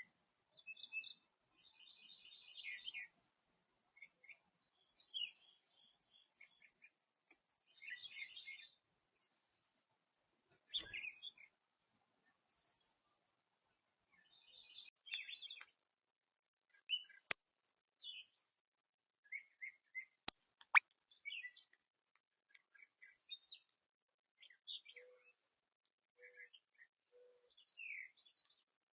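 Wild songbirds chirping in short, scattered calls. Two sharp, loud clicks come about three seconds apart, roughly two-thirds of the way through.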